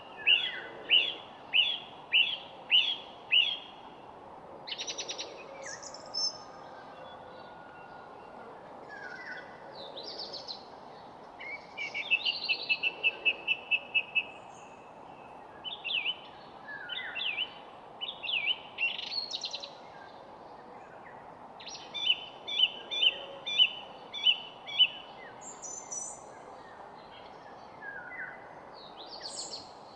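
Songbirds singing: phrases of repeated chirping notes, a fast trill about twelve seconds in, and brief high calls, over a steady background hiss.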